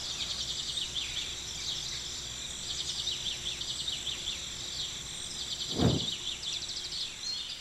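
Steady background of birds and insects chirping, many short, quickly falling chirps over a faint low hum. About six seconds in there is a single short dull sound.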